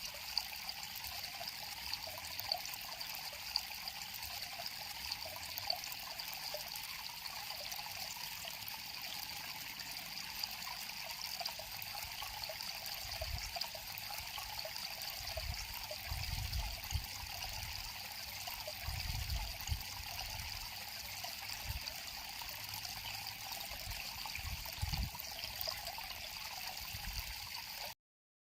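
River water flowing and trickling steadily over rocks, with a few soft low bumps in the second half. The sound cuts off suddenly near the end.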